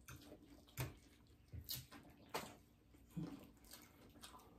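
Faint, wet chewing and lip-smacking from eating fried chicken and pasta, a handful of short smacks about a second apart.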